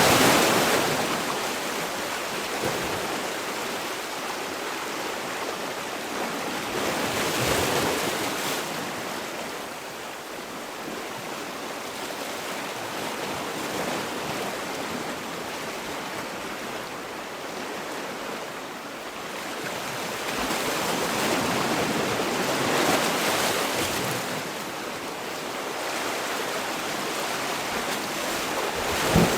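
Sea waves washing ashore: a steady rushing surf that swells and ebbs, with louder wave breaks about every several seconds.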